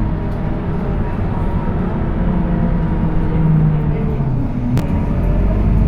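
Scania K230UB city bus's engine and ZF automatic gearbox heard on board while driving, a steady low drone whose note shifts. A sharp click comes near the end, after which the low drone grows stronger.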